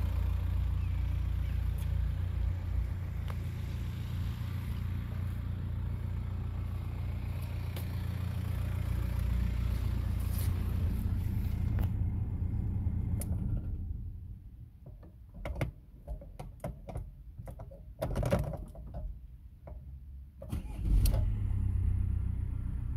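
Audi 1.9 TDI (AVB) four-cylinder turbodiesel idling steadily, then switched off a little past halfway. A few clicks and knocks follow in the quiet, and near the end the engine is started again and settles back to idle.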